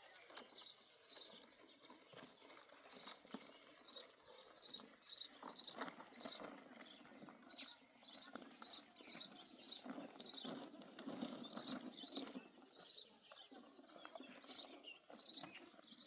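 A bird chirping over and over: short, high chirps, each dropping slightly in pitch, coming in runs at about two a second with brief pauses. A faint low background noise lies underneath.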